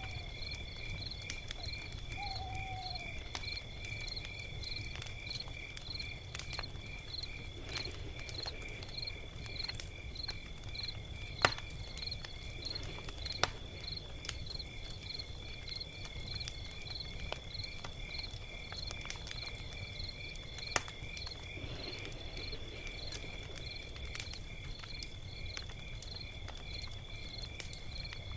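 Log fire burning with a low rumble and a few sharp crackling pops, the loudest about a third of the way in. Insects chirp steadily over it, about two chirps a second.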